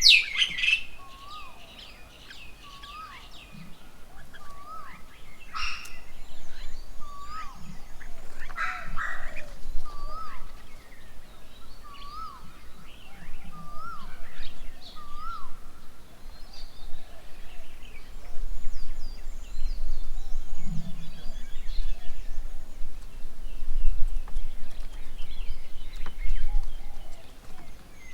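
Several birds calling: a short rising-and-falling note repeated about once a second, with higher chattering calls over it and a few louder, sharper calls in the first ten seconds. A low rumble grows in the background in the second half.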